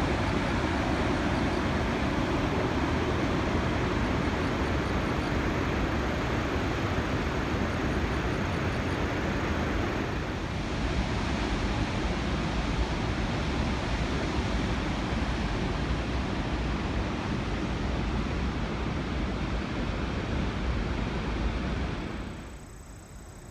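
Steady rush of high water at a dam, swollen with floodwater after a typhoon. The sound drops away suddenly near the end.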